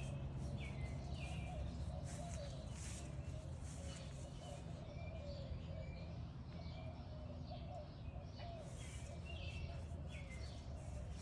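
Small birds chirping, short repeated chirps scattered throughout, over a steady low background hum.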